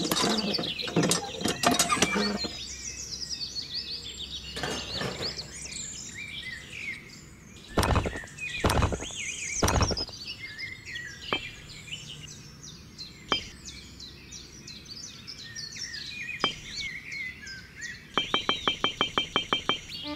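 Several birds chirping and twittering, with a few sharp knocks in between and a quick run of even clicks near the end.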